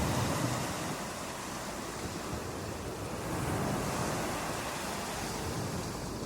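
Ocean surf breaking on a beach: a continuous wash of waves that swells and eases, louder at the start and rising again near the end.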